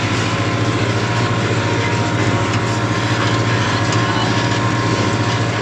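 Case IH JX95 tractor's diesel engine running at a steady pitch under load, pulling a two-furrow plough in fifth gear.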